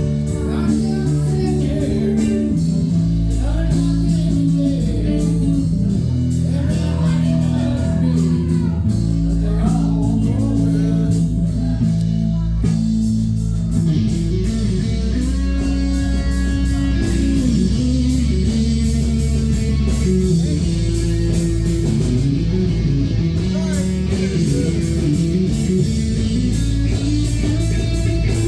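Live band music led by guitar, with bass and a steady beat from the cymbals.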